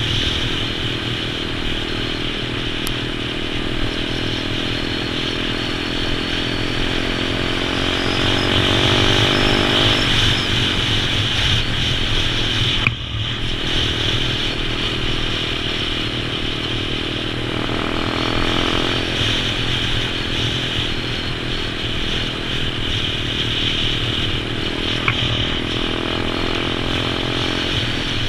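Pit bike engine running under way, its revs rising and falling with the throttle, with a brief sharp drop in the engine note about halfway through.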